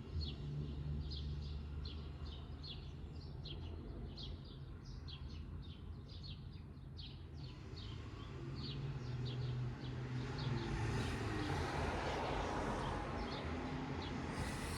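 A bird chirping over and over, short high chirps about two or three a second, over a steady low hum. A broad rush of noise builds and grows louder in the second half.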